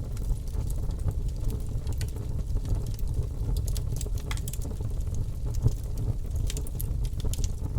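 Bonfire burning, with frequent sharp crackles and pops from the burning wood over a steady low rumble.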